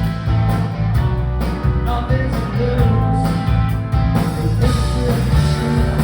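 Live rock band playing a song with electric guitars, bass, drums and singing, heard as a loud, reverberant venue recording.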